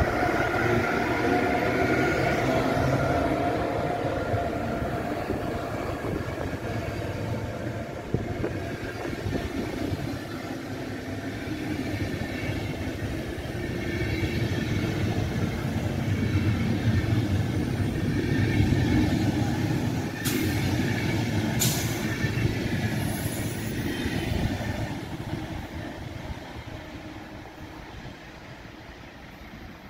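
Deutsche Bahn Intercity train rolling along the platform with a steady wheel-on-rail rumble, fading near the end. Two sharp clicks come about twenty seconds in.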